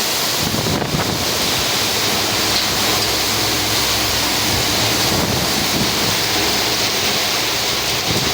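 Heavy rain pouring down in a steady, dense hiss, with wind rumbling on the microphone.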